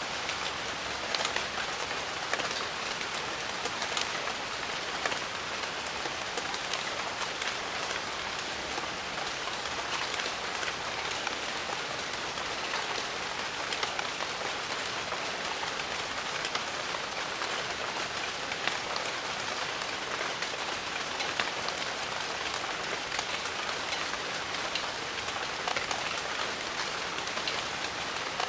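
Steady rain falling in a jungle, an even hiss with many individual drops pattering on leaves and surfaces.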